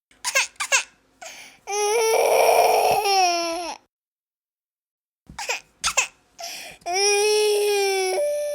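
A baby crying: a few short catching sobs, then a long high wail, a silent gap of about a second and a half, and the same sobs and wail again.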